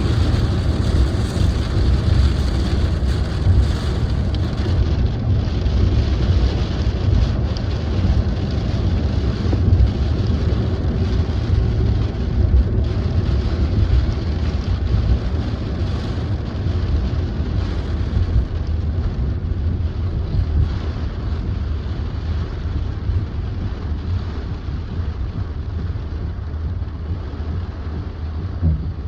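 Cabin noise of a car driving in light rain: a steady low rumble with a hiss of tyres on the wet road, easing slightly toward the end.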